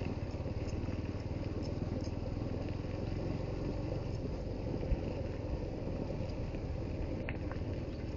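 Suzuki GD110HU motorcycle's single-cylinder four-stroke engine running steadily, with a single short knock about five seconds in.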